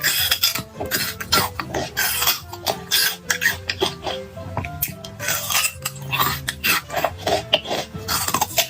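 Eating sounds: cutlery clicking and clinking against bowls and dishes in many short, quick strikes, over background music.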